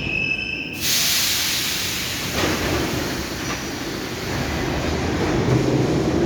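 EMA-502 metro train, heard from on board. A steady high tone stops about a second in and is followed at once by a sudden hiss that slowly fades over the running rumble of the train. Near the end a humming tone comes in and the rumble grows louder.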